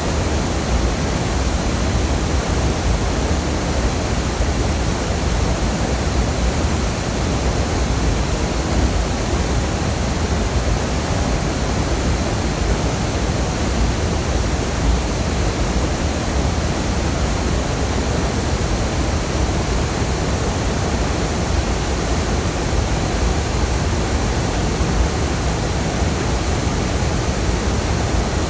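Longdang Waterfall's falling water: a loud, unbroken rush that stays steady throughout.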